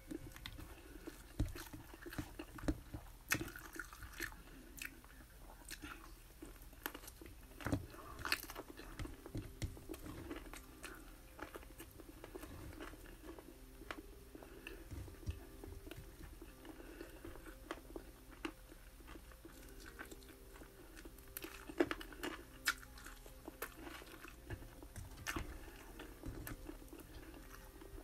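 A person eating a meal of rice, bacon and chicken wings by hand, chewing and crunching close to the microphone, with scattered short clicks and taps over a faint steady hum.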